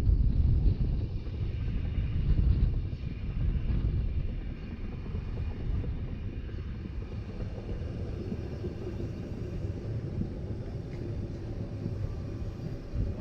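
Narrow-gauge Rhaetian Railway train running along the track, heard from on board as a steady low rumble. Wind buffets the microphone during the first few seconds, then the sound settles quieter and even.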